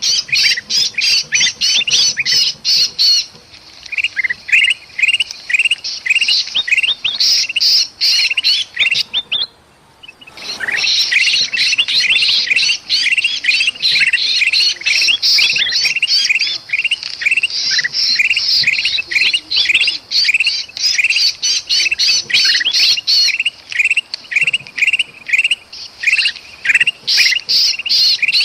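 Bulbuls (kutilang) in a noisy, agitated flurry of rapid, repeated chattering and squawking calls, with the distress calls of a trapped bulbul among them. The calls break off briefly about ten seconds in, then resume.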